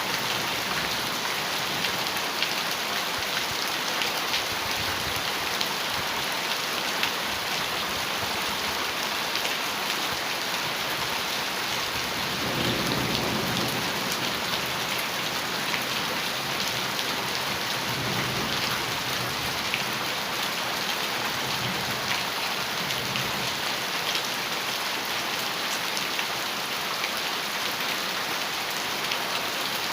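Heavy rain falling steadily on a metal roof, a dense hiss full of fine drop ticks. Low rumbles of thunder come in about twelve seconds in and twice more later.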